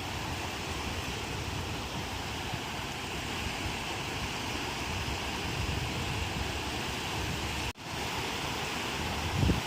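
Ocean surf breaking and washing on the shore, a steady rushing noise with a low rumble. It cuts out for an instant about three-quarters of the way through, and a short low thump comes just before the end.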